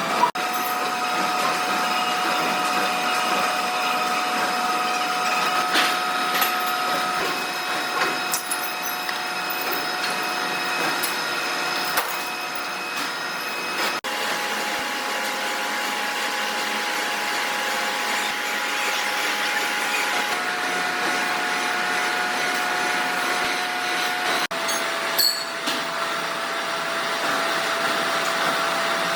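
Workshop machinery running with a steady whine and scattered clicks and knocks. The pitch of the whine changes abruptly a few times.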